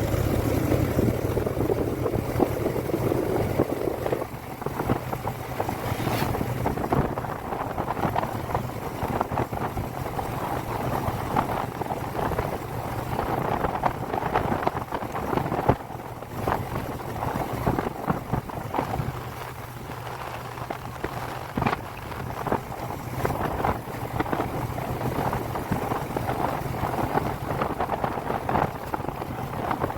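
Motorcycle engine running at a steady pace while riding, with wind buffeting the microphone.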